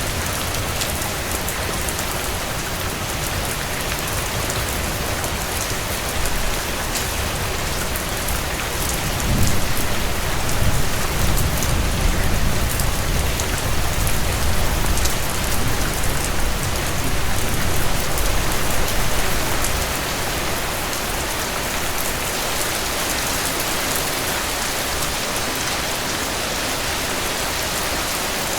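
Heavy rain falling steadily with an even hiss. About a third of the way in, a low rumble swells up for roughly ten seconds and then fades out.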